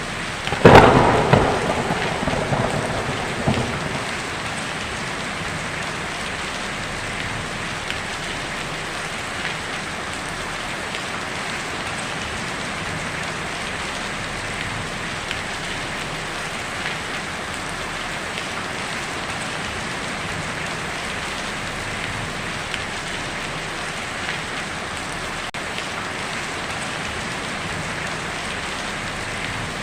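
Heavy rain falling steadily on a tin roof. Under a second in, a sudden loud thunderclap cracks and then rumbles away over about three seconds, leaving the steady rain.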